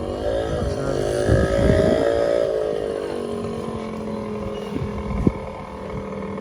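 An engine running, revved up about a second in and dropping back to a steadier idle around halfway, with a single sharp knock about five seconds in.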